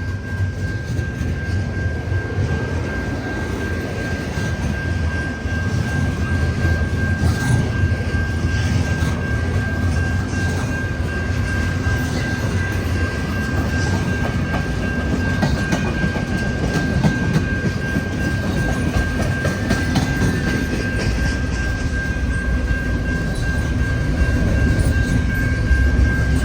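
Train rolling past close by, its cars rumbling steadily with wheels clicking over the rails. A thin, steady high whine runs under it the whole time.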